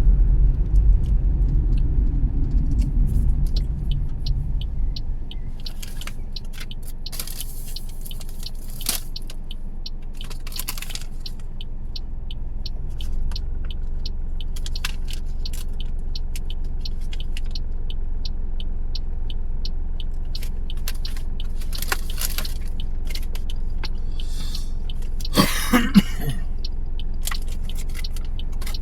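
Car driving on the road: a steady low rumble of engine and tyres, louder for the first few seconds and then settling to an even level. Over it come faint regular ticks and a few brief rattles, the largest a short squeaky rattle near the end.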